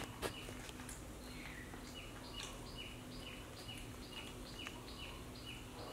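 Faint, rapid series of short high chirps, about three a second, like a small bird calling over and over. A steady low hum runs beneath, with a couple of soft clicks near the start.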